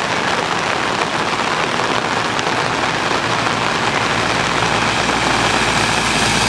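Heavy rain falling steadily on an umbrella held over the microphone, with a low steady hum underneath.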